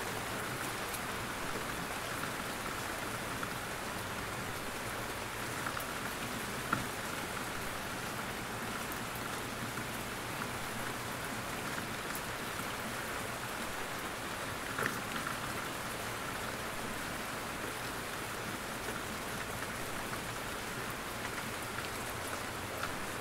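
Steady rain falling in a forest, with an even patter of drops on leaves and a few louder single drips, the plainest about seven and fifteen seconds in.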